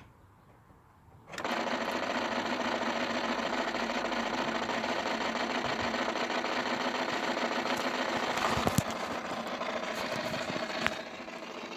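A rapid, steady mechanical buzzing chatter from the battery and fuse box area of a Honda Civic Type R EP3, starting suddenly about a second in and dropping off briefly near the end. It is the strange noise the owner is trying to trace.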